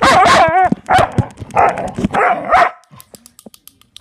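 A dog barking and yowling excitedly in three long bursts with wavering pitch, worked up by click noises. These are followed in the last second by a run of faint quick clicks.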